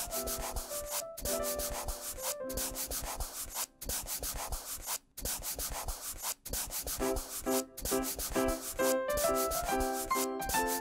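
Fast, repeated scratchy strokes of a marker coloring on paper, with a few short breaks in the middle, over a light plinking children's tune.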